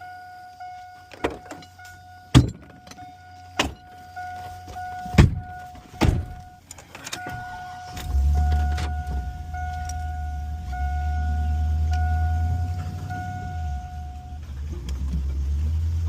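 A vehicle's warning beeper sounding over and over while several clunks and knocks go off, then an engine starts about eight seconds in and runs at a steady idle. The beeping stops near the end.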